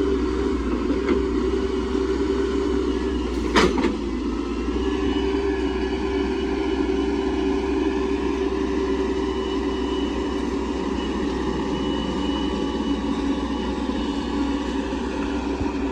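Hydraulic excavator's diesel engine running steadily while it works, with one sharp knock about three and a half seconds in and a faint high whine from about five seconds on.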